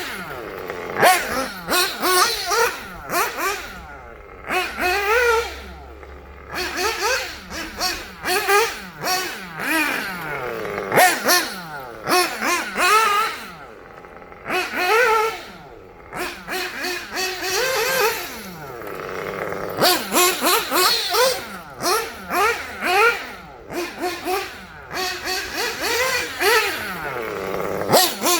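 1/8-scale Kyosho Inferno Neo 2.0 nitro buggy's glow engine, fitted with a Dynamite 053 tuned pipe, revving up and down over and over in quick rising and falling whines, with short lulls between bursts of throttle.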